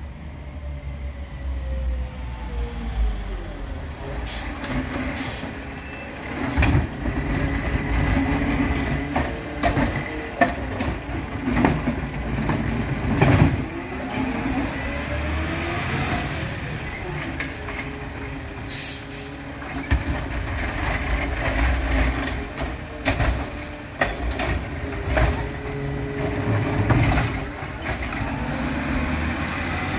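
Freightliner 108SD garbage truck with a McNeilus ZR automated side-loader body at work: the engine revs up and down in slow swells as it drives the lifting arm. Several loud bangs and clatters from a cart being lifted and emptied, the loudest about 13 seconds in, with hisses of air brakes.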